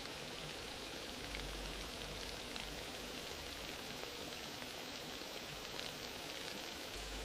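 Wood fire crackling in a fireplace: a steady hiss full of small, dense crackles, with a few slightly louder pops about a second in, near the middle, and again late.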